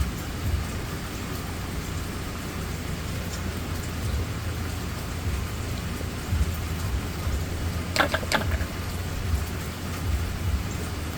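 Steady rainfall, an even hiss of rain over a low, uneven rumble. About eight seconds in come two short, sharp clicks in quick succession.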